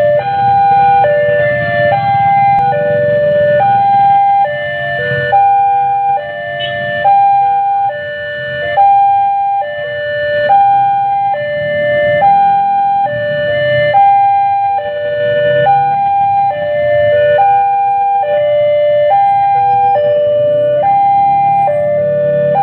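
Railway level-crossing warning alarm sounding continuously: a descending three-note electronic chime repeating about every two seconds over a low rumble.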